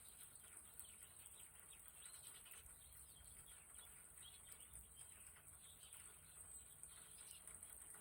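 Faint chirping of small birds: many short, high calls scattered throughout, over a faint steady hiss.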